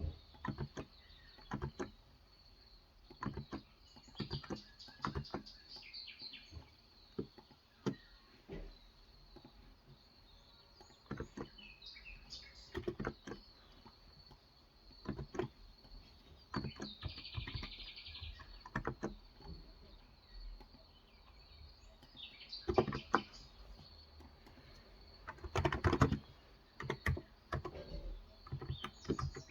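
Irregular typing on a Cox Endeavor 35 g electro-capacitive (Topre-style) tenkeyless keyboard: single keystrokes and short runs of keys separated by pauses, with a busier burst of typing near the end. Birds chirp in the background.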